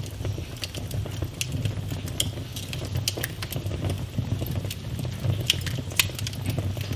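Wood fire in a fireplace crackling, with frequent sharp pops and snaps over a low, steady rumble of the flames; a few louder pops come near the end.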